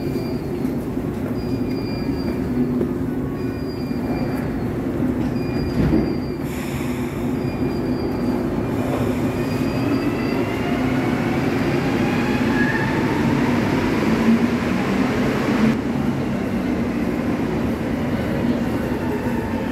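Metro train running, heard from inside the car: a steady rumble with a brief bump about six seconds in, then a whine that climbs in pitch through the middle as the train picks up speed.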